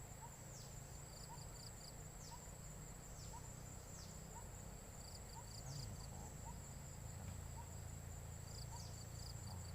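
Insects calling: a steady high-pitched trill with repeated high chirps sliding downward, and a soft short note repeating about every three-quarters of a second, over a low rumble.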